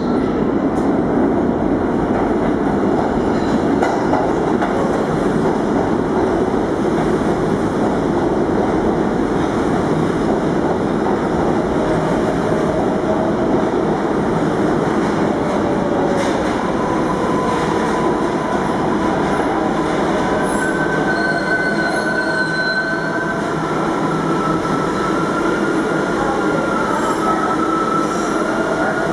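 R142A subway train running through the station with a steady loud rumble. From about halfway through, wheels squeal in several thin, high tones.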